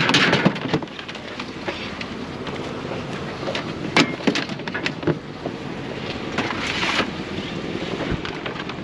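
A few scattered knocks and clunks of plastic tubs and scrap being handled, over steady wind noise on the microphone.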